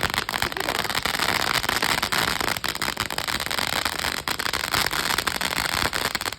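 Exodus consumer fireworks cake by Cutting Edge Fireworks firing, a dense, continuous crackling of many sharp pops packed close together.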